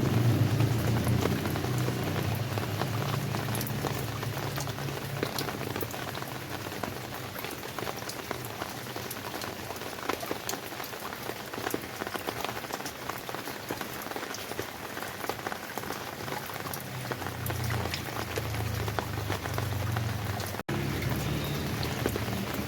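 Steady rain falling, a dense patter of many individual raindrops, with a low rumble underneath at the start and again near the end. The sound cuts out for an instant near the end.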